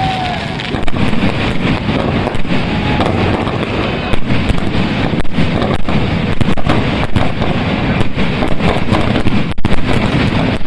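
Fireworks going off: a continuous, irregular string of sharp bangs and crackles over a dense, steady din.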